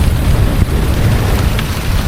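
Heavy rain falling steadily over a continuous deep low rumble.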